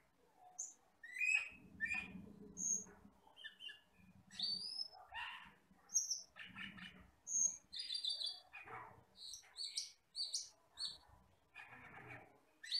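Song of a camperling (cucak keling) forest bird: a busy run of short, varied chirps and whistles, some of them rising, with barely a pause between phrases.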